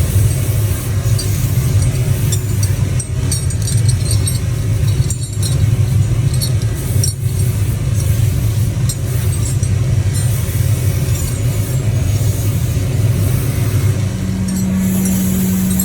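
Workshop machinery running with a steady low hum and scattered light metallic clicks; near the end the hum changes to a steadier, higher-pitched drone.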